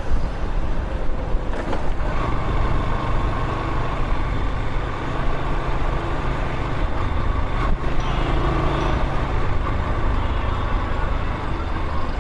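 Steady road noise while riding through traffic at night: vehicle engines running with rushing air, and a faint steady whine partway through.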